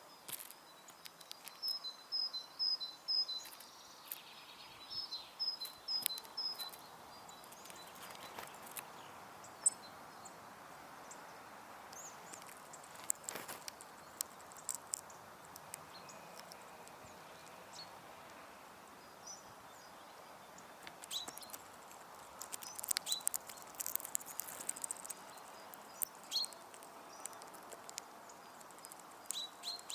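Small garden songbird at a feeder singing a short two-pitched phrase over and over in the first several seconds. Scattered sharp clicks and taps of birds pecking and moving on the feeder follow, growing busier in the second half, over faint outdoor background hiss.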